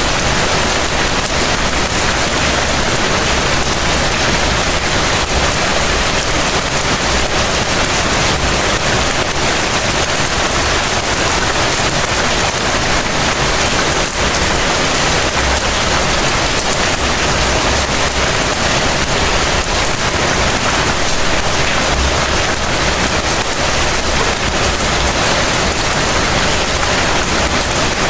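Heavy rain falling steadily: a dense, even hiss of rainfall that holds at the same loudness throughout.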